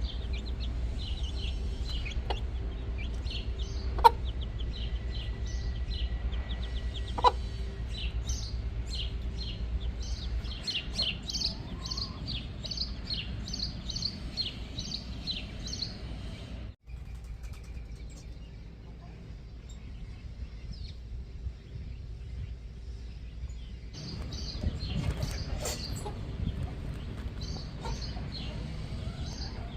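Backyard chickens clucking, with many quick high chirps over them. There is a sharp click about four seconds in and another about seven seconds in, and an abrupt break in the sound just past halfway.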